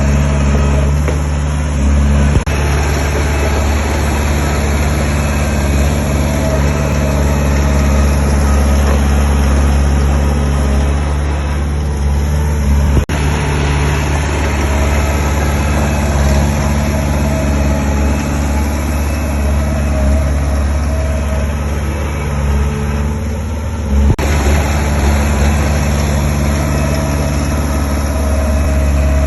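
Diesel engine of heavy earthmoving machinery running steadily and loud, with three brief sharp knocks spread through it.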